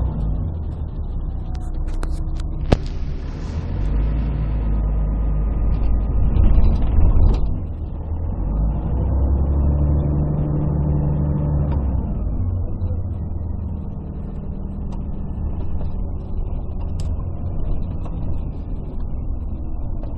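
Cabin sound of a 1998 Scania CN113CLL city bus under way: its Scania DSC11 diesel and Voith three-speed automatic gearbox running, the engine note rising and falling. There is a sharp click and a short hiss about three seconds in, and the engine is loudest just before dropping off suddenly about seven seconds in. The sound is muffled and bass-heavy because the phone's microphone was partly covered.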